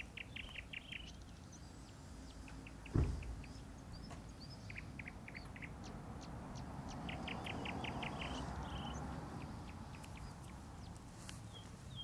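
A small songbird repeating a short run of quick, evenly spaced high chirps three times. A single low thump about three seconds in stands out above it.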